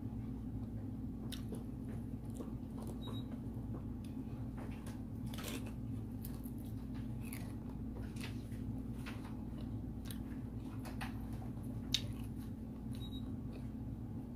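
Close-up eating sounds: chewing chicken and rice, with scattered soft mouth clicks and smacks and one sharper click near the end, over a steady low hum.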